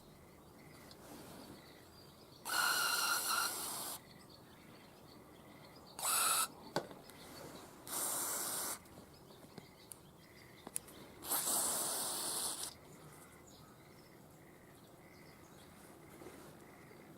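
Four short hissing blasts from a pressurised nozzle on carburetor parts, the last and longest lasting about a second and a half. A faint high chirp repeats about once a second in the background.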